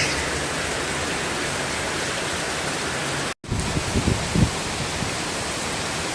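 Heavy rain falling steadily, an even hiss. There is a brief dropout a little over three seconds in, after which low gusts of wind rumble on the microphone under the rain.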